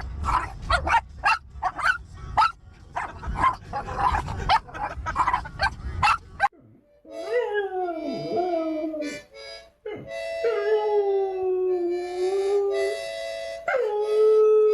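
A quick run of short, sharp noises for about six seconds. Then a dog howls three times in long notes, each sliding down and then held.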